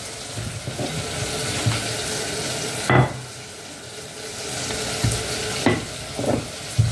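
Food sizzling steadily in a hot pan on the stove, with a few short knocks of kitchen handling.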